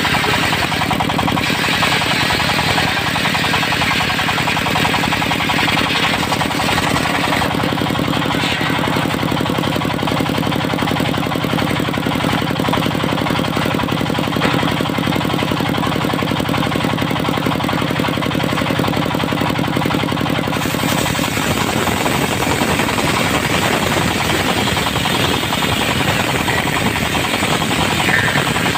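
An engine running steadily with a fast, even pulse; its tone changes about twenty seconds in.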